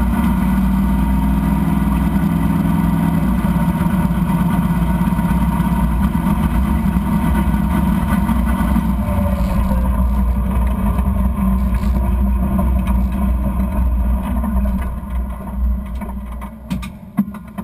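Drag race car's engine heard from inside the cabin, running steadily with a strong low rumble. Near the end the engine sound drops away and a few sharp knocks follow.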